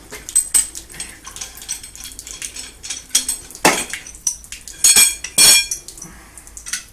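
Metal pipe and fittings clinking and knocking together in quick irregular strokes, with two loud ringing metallic clanks about five seconds in.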